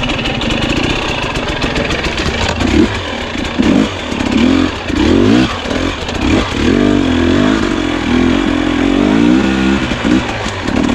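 Two-stroke dirt bike engine revving up and down in repeated throttle blips.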